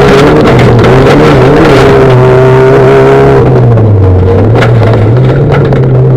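V1600-class Fiat Bravo rallycross car's engine running hard at high revs, very loud. The pitch dips as the revs drop about four seconds in, then climbs back.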